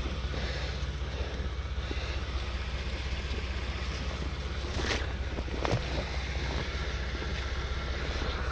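Steady low rumble with wind noise on the microphone, and a couple of faint knocks about five and six seconds in.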